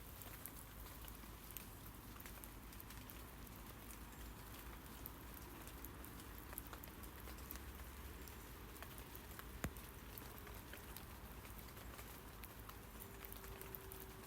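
Rain falling on tree leaves: a faint, steady patter with scattered individual drips, and one sharper drop about ten seconds in.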